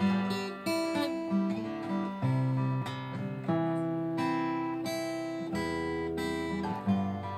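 Acoustic guitar fingerpicked in a 3/4 arpeggio pattern, with melody notes and fills worked in over the chords and bass notes ringing underneath.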